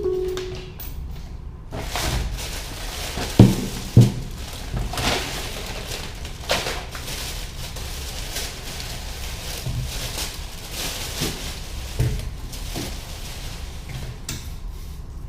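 Indoor handling sounds: a series of sharp knocks and clacks over a low room rumble, the two loudest about three and a half and four seconds in, like cupboards, drawers or doors being worked.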